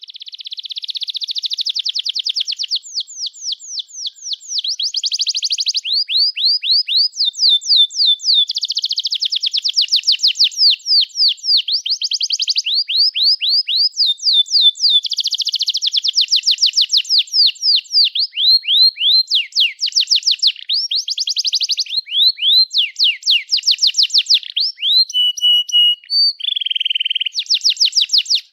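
Domestic canary singing a long, unbroken song of high-pitched trills. It switches every second or two between phrases of quick repeated notes and faster buzzing rolls, and stops abruptly at the end.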